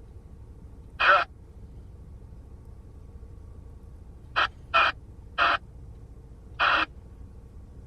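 Crow cawing, five harsh calls: one about a second in, then four in quick succession from about four and a half seconds in.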